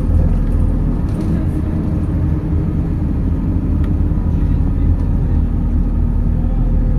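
Interior running noise of a MAZ 206 city bus under way: a steady low rumble of the diesel engine and road, with an even engine hum that holds pitch at a constant speed.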